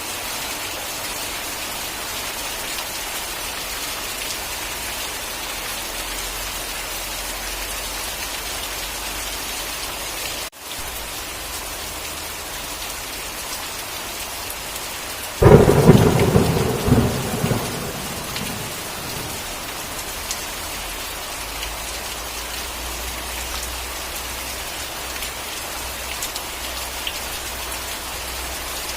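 Steady rain falling, with a sudden loud thunderclap about halfway through that cracks and rumbles for about three seconds before fading back into the rain. The rain cuts out for an instant about a third of the way in.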